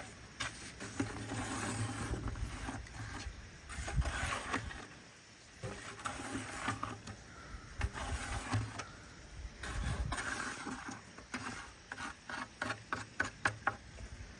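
Scraping and rustling of wet plaster being worked into a plastic volcano mold, with a run of sharp clicks and taps in the last few seconds.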